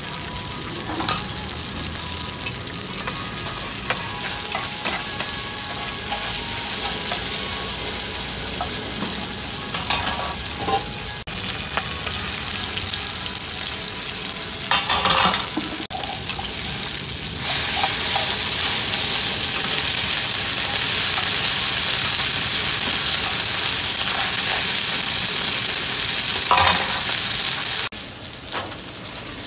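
Mussel and egg omelette frying in hot oil in a cast-iron pan: a steady sizzle that gets louder about two-thirds of the way through, then drops suddenly near the end.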